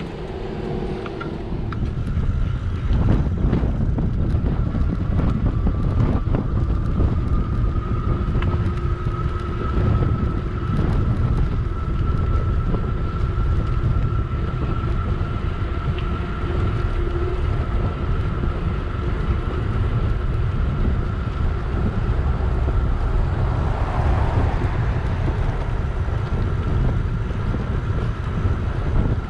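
Wind buffeting the microphone while riding an electric bike: a steady low rumble that gets louder about two seconds in, with a faint steady thin tone running through most of it.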